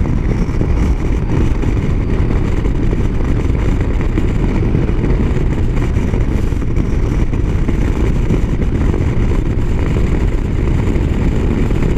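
Motorcycle ridden on the highway: a steady, loud low rumble of wind and engine noise on the rider's microphone, with no changes or sudden sounds.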